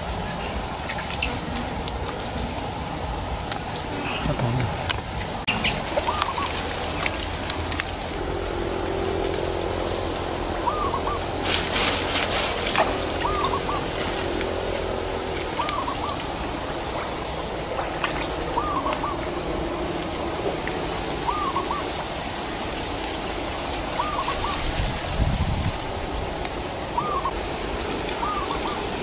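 A bird repeating a short two-note hooting call about every two seconds, over a steady outdoor background with a thin high whine. A brief rustling crackle comes about twelve seconds in.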